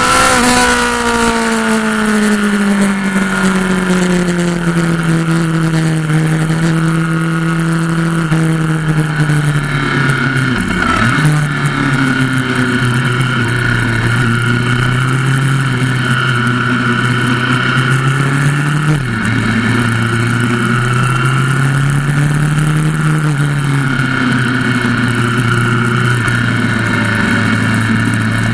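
Motorcycle engine heard from onboard while riding on a race track, running steadily at part throttle with its pitch rising and falling gently through the corners, under steady wind noise. The pitch dips briefly about 11 seconds in and steps down suddenly about 19 seconds in.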